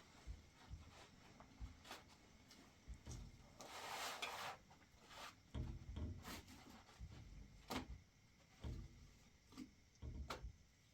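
Scattered light knocks and thumps of things being handled, with a short rustling scrape about four seconds in.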